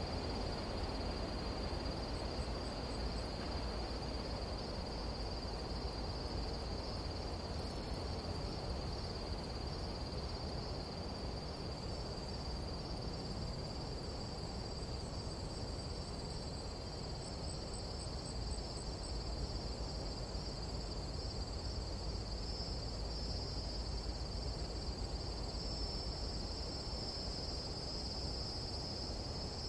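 Nighttime tropical jungle insect chorus: a steady, unbroken high-pitched trill, joined by a second, higher insect tone about twelve seconds in, with a few faint short chirps over a low, even rumble.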